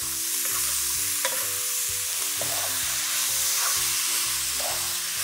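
Chopped tomatoes, onions and cashews sizzling in hot oil in a non-stick pan while a wooden spatula stirs them, with a steady hiss and scattered light scrapes and knocks.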